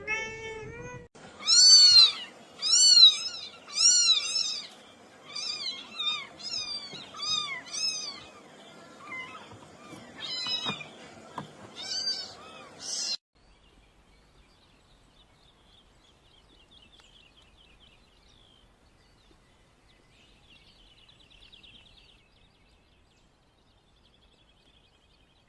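Cats meowing: one lower call at the start, then a string of high, thin, arching meows about once a second. The sound cuts off suddenly about halfway through, leaving near silence.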